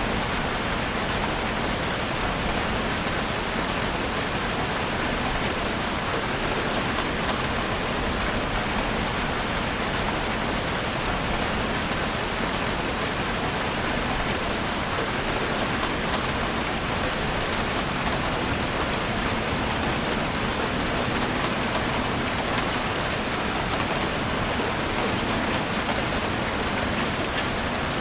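Heavy rain drumming steadily on a roof: a dense, even rush with countless fine drop ticks.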